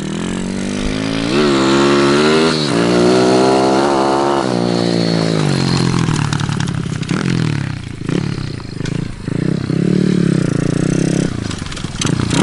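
A Kawasaki KLX110L pit bike's small single-cylinder four-stroke engine revs up about a second in and holds high revs for a few seconds. It then drops back and rises and falls several times at lower revs as the clutch and throttle are worked.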